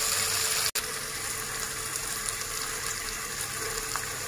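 Prawns, onion and green chilli frying in oil in a pan: a steady sizzle. It drops out for an instant under a second in, then carries on a little quieter.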